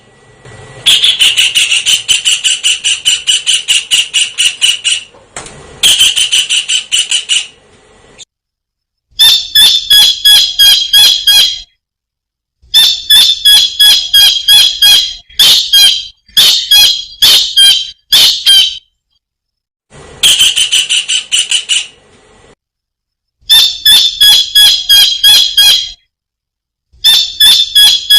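Kingfisher calling in fast runs of sharp, high repeated notes, several a second, in bouts of a few seconds broken by short silent gaps.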